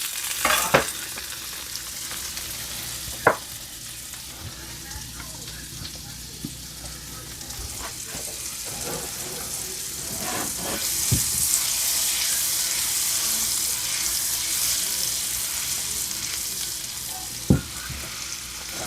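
Butter sizzling and frying in hot fat in a pan, with a few sharp taps of a utensil against the pan. The sizzle grows louder about ten seconds in.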